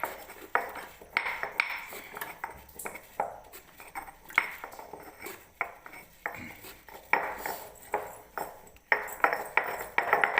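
Cumin and pepper being ground and crushed by hand on a stone grinder, with repeated irregular knocks and clinks of stone on stone.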